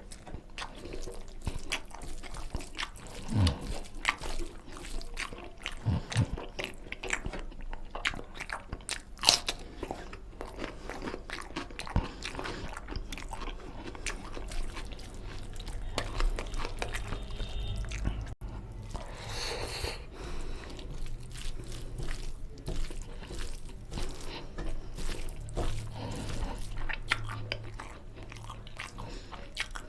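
Close-miked eating of mutton nalli curry with rice: steady chewing, biting and crunching with many short wet mouth clicks.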